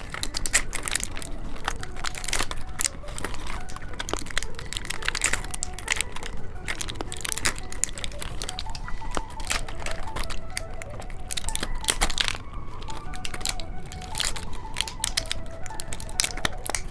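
Plastic candy packaging being handled and torn open, crinkling, with many sharp irregular crackles and clicks.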